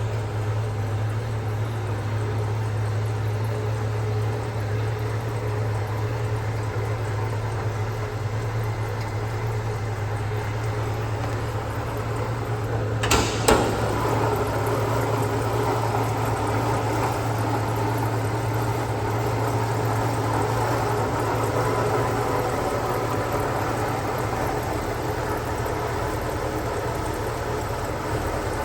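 1968 Ford Mustang's engine idling steadily shortly after a cold start. Two sharp knocks come close together about halfway through.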